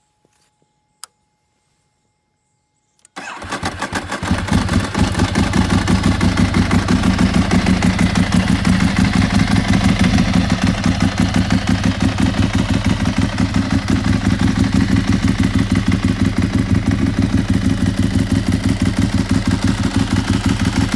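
Ducati 1098's L-twin engine on a cold start. After a single click about a second in, it catches about three seconds in and settles into a steady, evenly pulsing idle.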